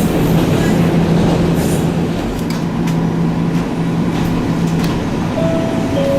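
Echizen Railway electric train running, heard from inside the car: a steady rumble of wheels on rail with a constant low hum and scattered light clicks. A higher whine starts about five seconds in and steps down slightly in pitch.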